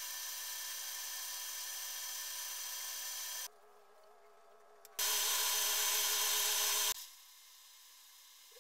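A small electric power tool running at a steady pitch, in two runs: one stopping about three and a half seconds in, and a louder one from about five to seven seconds in that cuts off sharply.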